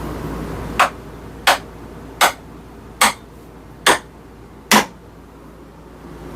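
Six sharp knocks, about one every 0.8 seconds, as a hammer head is driven down onto its new wooden handle to seat it.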